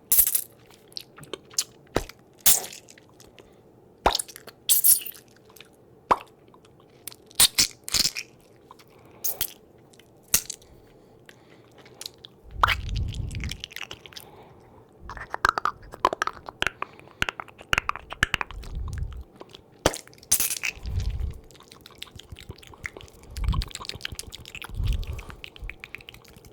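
Brush bristles rubbed and flicked against a microphone, close up: short, sharp crackling strokes at irregular intervals. From about halfway through come longer scratchy strokes with several low, muffled thumps.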